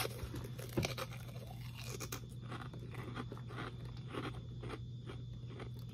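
A person chewing a crunchy fried pork rind with the mouth, a steady run of crisp crunches at about three a second, over a low steady hum.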